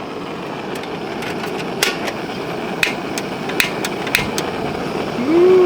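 A few sharp clicks and taps from cooking gear being handled, over a steady hiss. Near the end a man's voice gives a rising-and-falling "woo-wee".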